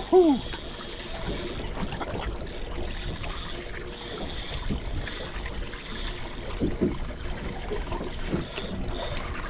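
Boat fishing reel screaming as a hooked tope strips line against the drag, coming in spurts: strong for the first few seconds, again around the middle and near the end. A brief shout right at the start, over the wash of water around the anchored boat.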